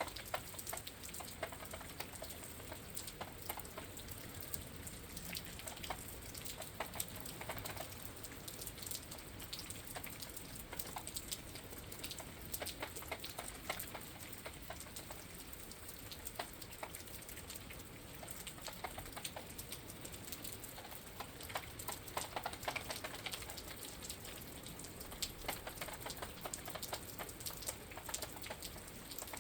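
Rain falling on a wet night, heard through a window: a steady patter scattered with many sharp, irregular drop impacts.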